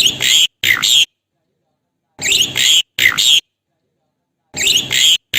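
Asian pied starling (jalak suren) singing: pairs of short, harsh chattering phrases laced with whistled notes, repeated three times with abrupt dead silence between each pair.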